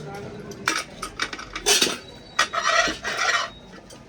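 Metal pots and utensils clinking and knocking, with several sharp knocks and two short scraping rasps near the middle.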